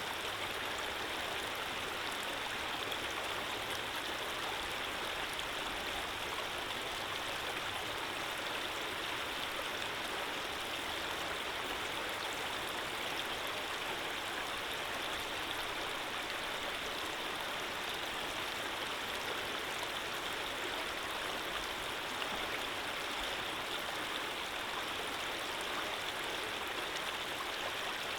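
Running water flowing steadily: an even, unbroken rushing hiss with no changes or separate splashes.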